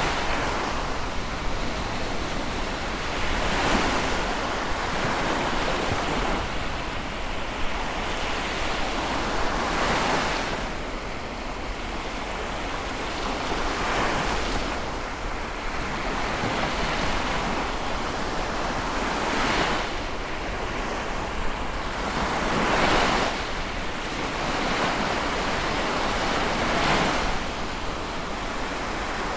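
Sea waves breaking and washing in, one swell of surf every few seconds over a constant rush of water.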